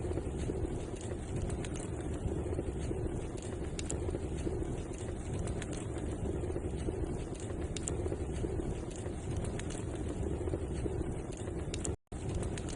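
Wood fire in a fireplace crackling, with scattered sharp pops and snaps over a steady low rush of burning. The sound drops out for an instant near the end.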